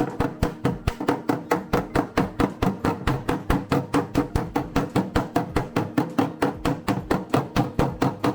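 Body hammer tapping on a car's steel body panel in a fast, even rhythm, about six taps a second, shrinking the stretched high spots of the sheet metal.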